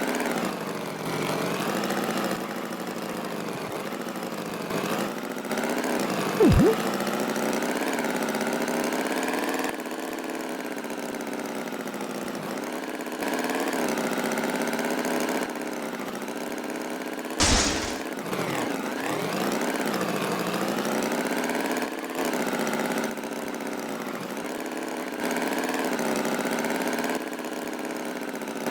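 Tractor engine running steadily, its pitch wavering slightly. There is a short tone dropping sharply in pitch about six seconds in, and a loud sudden burst sweeping down from high pitch about seventeen seconds in.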